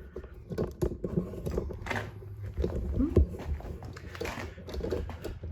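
Irregular clicks, taps and light knocks of hands handling and adjusting a lawnmower's controls and housing.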